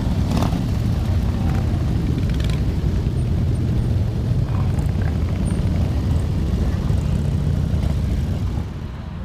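Motorcycle engines running in a loud, steady low rumble, dropping in level near the end.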